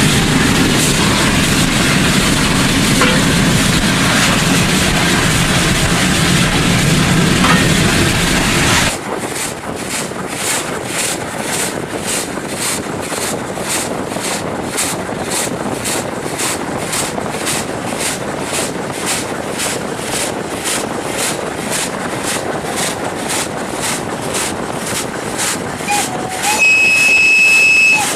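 CFR 231.065 steam locomotive, a Pacific, and its train on the move. A loud, dense rush for about the first nine seconds gives way abruptly to an even rhythmic beat about twice a second. The locomotive's whistle sounds once for about a second and a half near the end.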